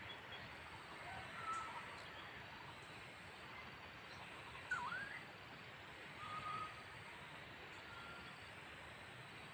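Faint, scattered bird calls over a soft steady outdoor hiss: a few short whistled notes, the loudest about five seconds in swooping down and back up in pitch.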